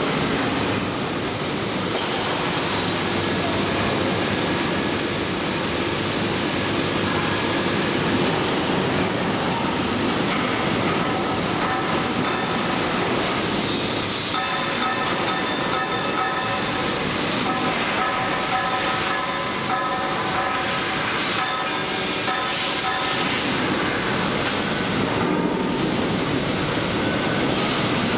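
A train running on the rails: a steady rushing rumble, with thin high tones coming and going over the middle stretch.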